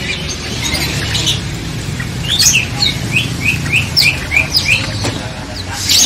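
Caged songbirds chirping: a run of short, quick, downward-sliding chirps, about three a second, from about two seconds in to near five seconds, with scattered single chirps around them. A steady low hum runs underneath.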